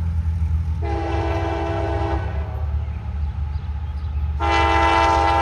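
Approaching freight train's diesel locomotive horn sounding two blasts. The first lasts about a second and a half; the second, louder one starts near the end and is still sounding. A steady low rumble runs under both.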